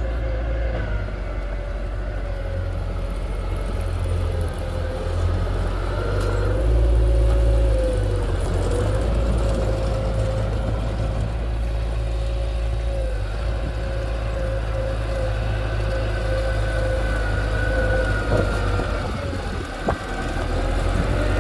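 Diesel engine of heavy earthmoving equipment running steadily, with a low rumble and a held whine above it that dips slightly in pitch about eight seconds in, the engine getting briefly louder around seven seconds in.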